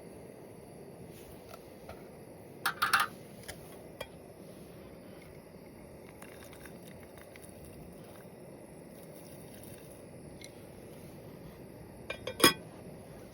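Camp cookware and cutlery clinking as they are handled while making coffee: a quick cluster of clinks about three seconds in and another, louder cluster near the end, over a steady low hiss.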